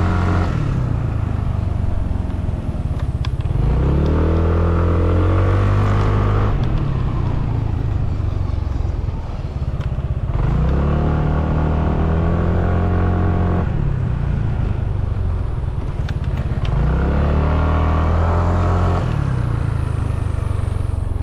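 Motorcycle engine accelerating three times, its pitch climbing for a few seconds each time and easing back in between, over a constant low rumble of riding.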